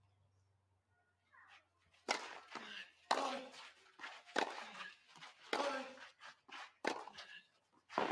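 Padel rally: the ball is struck about once a second, each sharp hit ringing on in the hall, after a brief shoe squeak.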